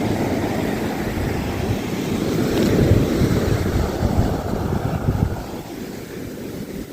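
Ocean surf washing in on a beach, swelling in the middle and easing off near the end, with wind buffeting the microphone.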